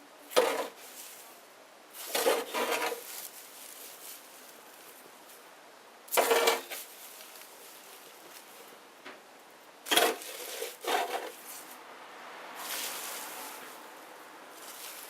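Small wood bonfire crackling: short bursts of popping and snapping come a few seconds apart over a faint steady hiss. A softer rush of noise rises and fades near the end.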